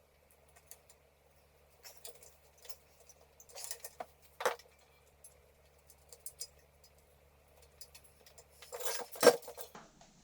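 Light clinks, clicks and knocks of small hard objects being handled, with a sharper knock about four and a half seconds in and a louder burst of clatter near the end.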